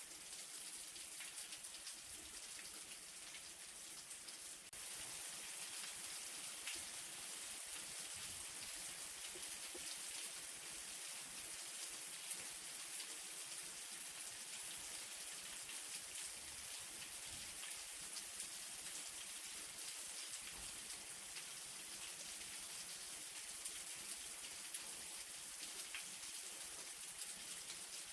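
Light rain falling steadily, a soft even hiss with many individual drops ticking. It gets slightly louder about five seconds in.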